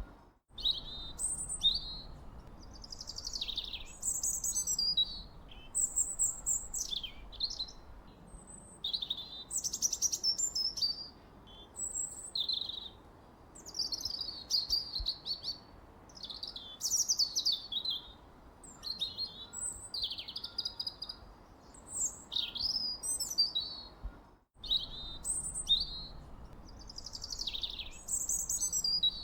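Birdsong: a continuous run of short, varied chirps and whistled phrases with pitch sweeps, over faint low background noise. It cuts out completely for a moment twice, about half a second in and about 24 seconds in.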